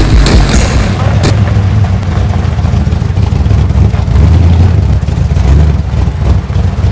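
Engine of an early-1990s Chevrolet Camaro running as the car pulls away and drives past, with a deep exhaust note. It swells under throttle twice, about four and five and a half seconds in.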